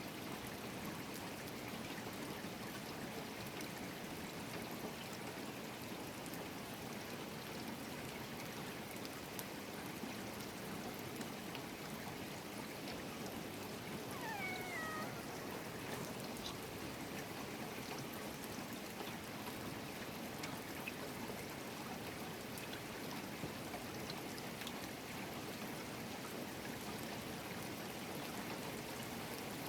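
Steady rain falling, an even hiss with scattered drips. About halfway through, a single short animal call falls in pitch.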